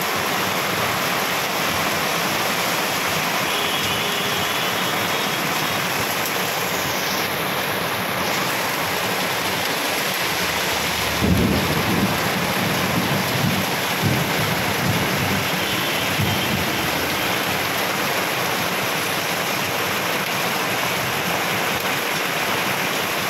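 Heavy rain pouring down steadily in a storm, a dense, even hiss. About halfway through, a low rumble rolls in and lasts several seconds.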